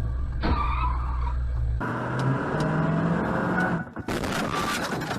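Car engine and road noise recorded from inside a moving vehicle, changing abruptly a couple of times. About four seconds in comes a loud, harsh noise with sharp clicks through it.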